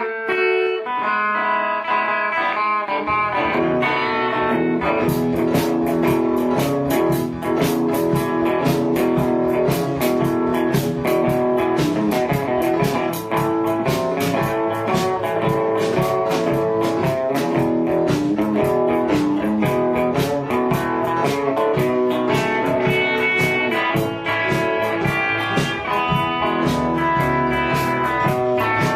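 Blues band playing an instrumental passage led by guitar. The guitar plays alone at first; a low bass line comes in about three seconds in, and a steady beat of sharp strokes joins about two seconds later.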